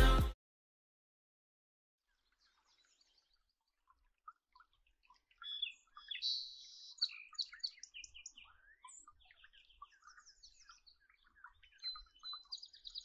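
Several birds chirping and singing, sparse at first and much busier from about five seconds in. A music track cuts off right at the start.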